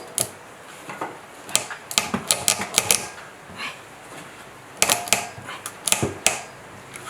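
Quick runs of sharp clicks and clacks, like small metal tools and parts being handled and set down, in two bursts, one about a second and a half in and the other near five seconds in.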